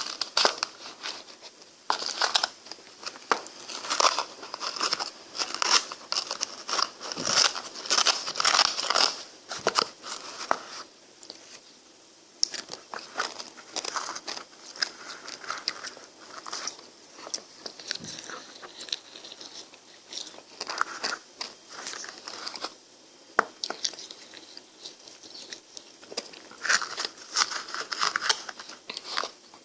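Close-miked biting and chewing of frozen ice cream: irregular crunchy, crackling bites and chews, with a few short pauses.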